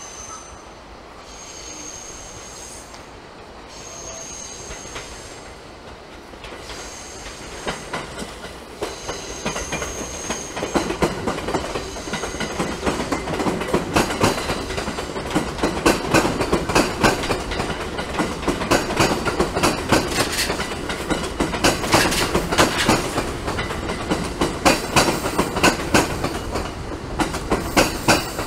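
Electric passenger train passing, its wheels clicking rapidly over rail joints; the rattle builds from about seven seconds in and stays loud to the end.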